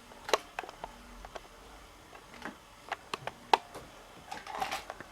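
Scattered light clicks and taps of small objects being handled, about a dozen in all, the sharpest about three and a half seconds in, with a busier run of clicks near the end.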